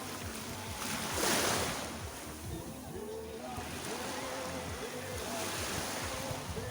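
Sea surf washing onto the beach, with one wave breaking louder about a second in.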